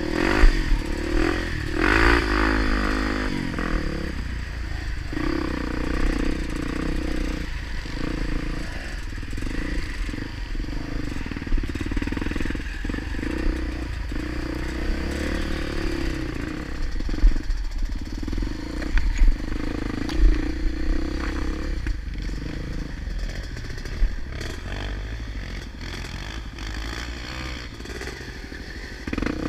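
Honda Tornado 250's single-cylinder four-stroke engine running under changing throttle, its pitch rising and falling, with scattered clattering knocks as the bike rides over rough enduro ground. The engine runs quieter for the last few seconds.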